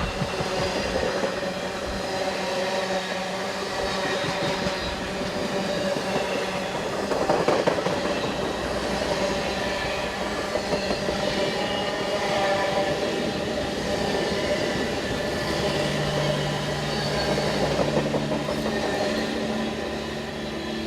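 A train rolling past: steady rail and wheel noise from the wagons, with shifting metallic whining tones over it. A low steady hum joins in near the end.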